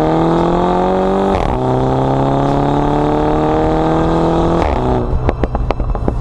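Mini Cooper S's turbocharged four-cylinder engine through a Remus cat-back exhaust, heard from inside the car. It accelerates with a rising note, makes a quick dual-clutch upshift about a second and a half in, and pulls up again. Near the end it comes off the throttle with a string of sharp pops and bangs on the overrun.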